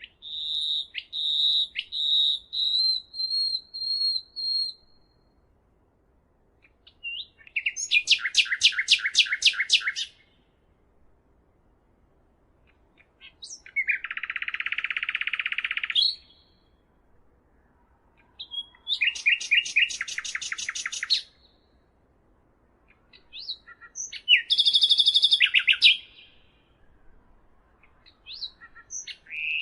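A songbird singing six separate phrases of two to four seconds each, with pauses of a second or two between them. The phrases vary: a run of repeated whistled notes, rapid trills, and one buzzy, rasping phrase.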